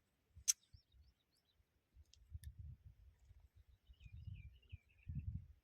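A few sharp clicks, then about four seconds in a brief wavering, warbling bird call, over faint low rumbles.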